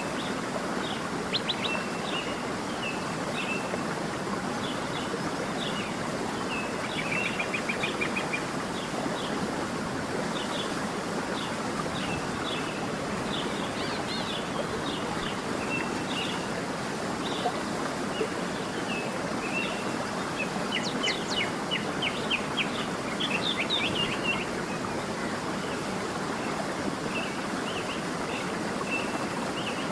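Small birds chirping and calling over a steady background rush, with a few quick trills, the busiest about a third of the way in and again past the middle.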